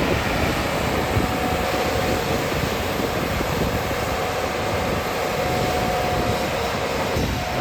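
JCB 245 HD LR long-reach excavator's diesel engine running steadily under load as it works, with a steady whine over the low rumble that dips briefly near the end.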